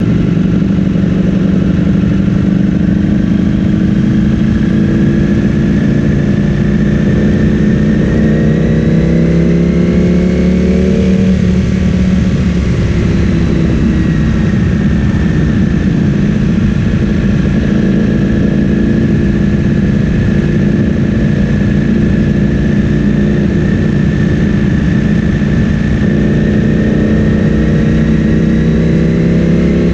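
Ducati Streetfighter V4S's 1103 cc V4 engine running through an Akrapovic full-system exhaust. Its pitch climbs slowly for several seconds, drops back about 12 seconds in, holds steady, and starts climbing again near the end.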